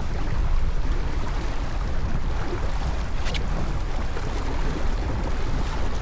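Wind buffeting the microphone over water rushing along the hull of a racing sailboat under way. There is a brief higher hiss about three seconds in.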